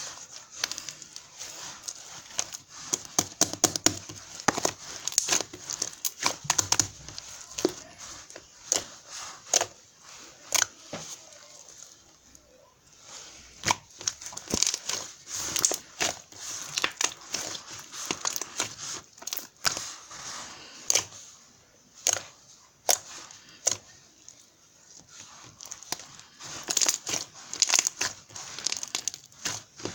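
Crinkling and rustling of something being handled, dense irregular crackles in bursts, with lulls about twelve and about twenty-four seconds in.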